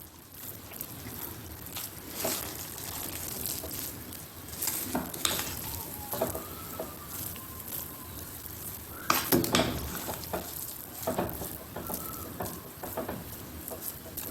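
A pot of vegetables cooking in coconut milk, sizzling and bubbling while it is stirred, with a spoon knocking against the pot now and then and a cluster of louder knocks about nine seconds in.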